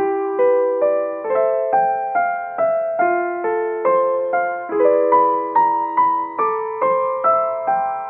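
Background piano music: a slow, gentle melody of plucked-sounding notes struck about two or three times a second, each ringing and fading.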